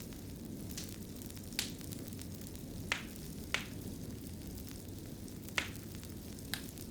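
Wood fire burning in a fireplace: a low, steady rumble of flames with sharp, irregular crackles and pops, about five clear ones scattered through.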